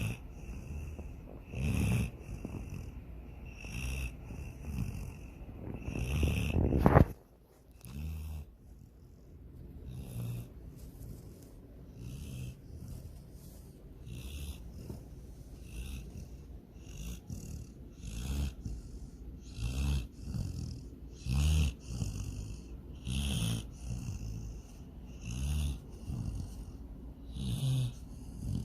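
A sleeping dog snoring, a snore every one and a half to two seconds. One louder, longer snore swells up and breaks off suddenly about seven seconds in.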